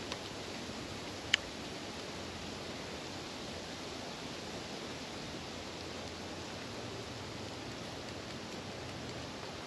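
Steady, even outdoor hiss with one sharp, briefly ringing clink about a second and a half in.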